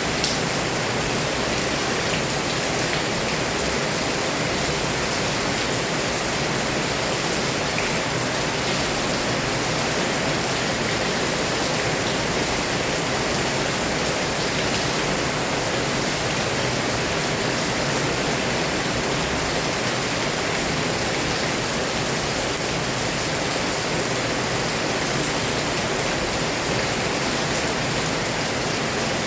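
Heavy rain pouring down steadily, a dense even hiss of downpour that neither swells nor eases.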